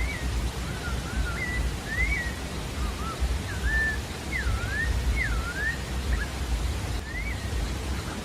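Sabiá-da-várzea singing: a quick run of clear whistled notes, each sliding up or down, in short phrases. Under it runs a steady rushing background noise with a low rumble.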